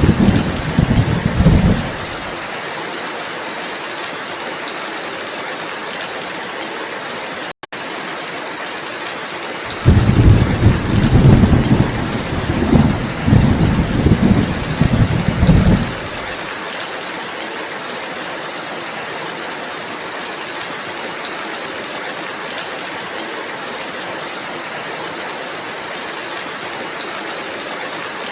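Steady rainfall with rolling thunder: one rumble dies away about two seconds in, and another rumbles for about six seconds starting some ten seconds in. There is a split-second dropout in the sound about seven seconds in.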